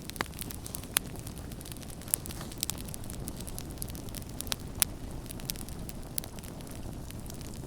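Campfire crackling: irregular sharp pops and snaps over a low, steady rumble, with the loudest snaps about a second, two seconds and nearly five seconds in.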